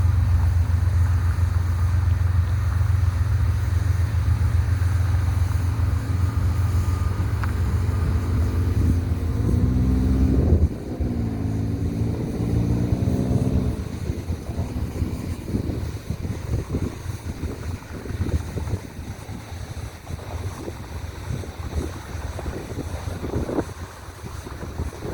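Loaded coal train rumbling past. About halfway through, a diesel locomotive's engine note wavers in pitch, then the heavy rumble cuts off suddenly and gusty wind buffets the microphone.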